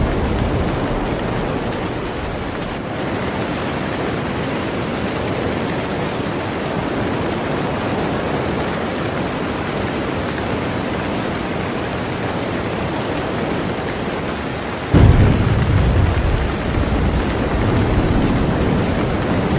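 Heavy rain falling steadily on a boat. About fifteen seconds in, a low thunder rumble sets in suddenly and rolls on under the rain.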